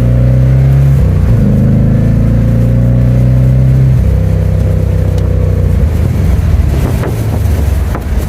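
1990 Chevrolet Corvette's L98 5.7-litre V8 pulling under acceleration. The engine note climbs slowly, changes about a second in, then drops to a lower pitch about four seconds in as the ZF six-speed manual is shifted up.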